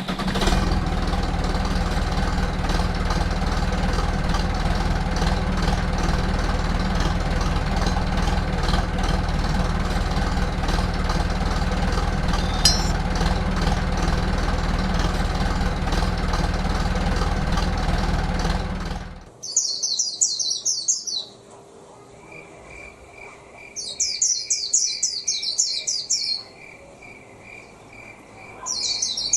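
A small motor runs steadily for about nineteen seconds, then cuts off suddenly. Birds then chirp in three short bursts, with a steady high peep repeating a few times a second in between.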